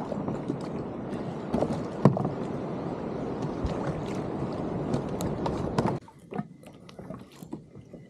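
Water rushing and sloshing against a kayak hull as it moves, with scattered knocks and clicks; about six seconds in it cuts off suddenly to a much quieter background with small clicks.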